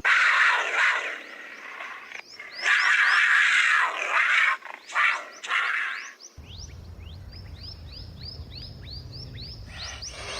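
A big cat giving harsh, noisy snarls or hisses in four or five bursts over the first six seconds. After that comes a steady run of short, high chirps, about three a second.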